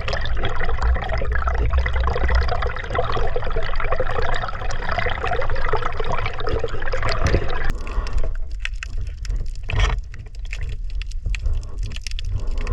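Water sloshing and gurgling close to the microphone. About eight seconds in, the sound changes abruptly to sparser crackling and clicking.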